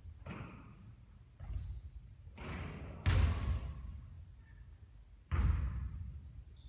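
A basketball bouncing and striking hard surfaces during three-point shooting practice: about four separate thuds, the loudest about halfway through, each dying away over about a second.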